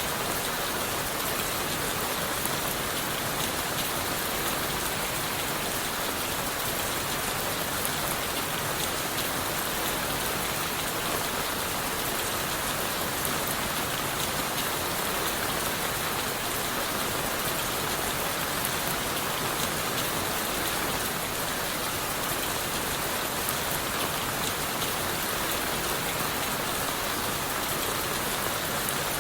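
Steady rain falling on leaves and wood, a dense, even hiss of many small drop patters with no change in strength.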